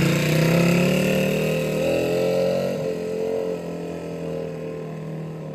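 Dirt bike engine running as the bike rides away, its sound fading steadily, with a brief dip and rise in pitch partway through.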